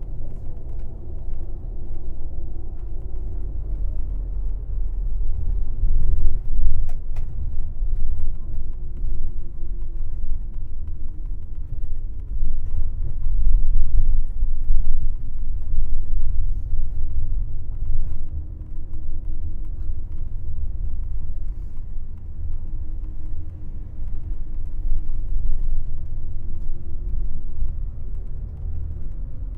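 Airport limousine bus driving along: a steady deep rumble of engine and road noise, with a drone that slowly rises and falls in pitch as the bus changes speed.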